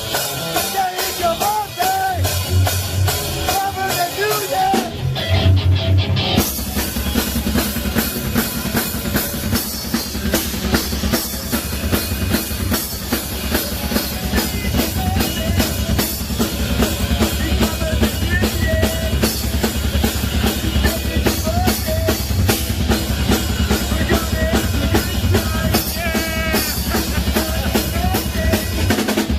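Live heavy rock band playing in a studio. Electric guitar lines run over bass, then about six seconds in the drums come in with a fast, driving beat under the full band.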